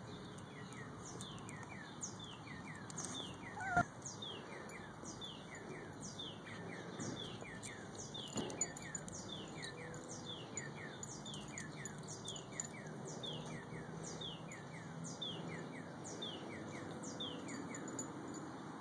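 Outdoor birds chirping: a steady stream of short, falling chirps, two or three a second. About four seconds in there is a brief, louder falling squeak.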